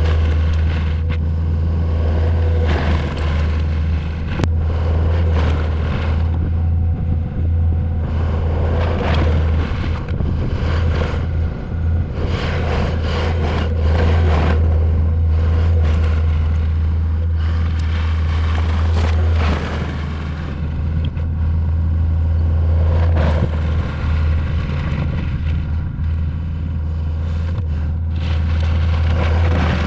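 Compact track loader's diesel engine running steadily under load, with irregular clatter and scraping of gravel being pushed and spread.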